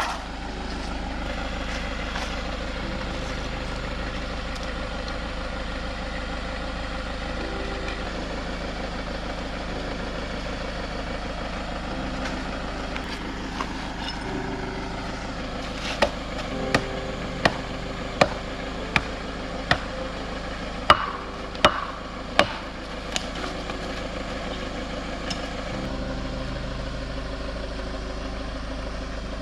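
A camper van's engine running while the van is stuck in sand, with a run of about ten sharp knocks past the middle.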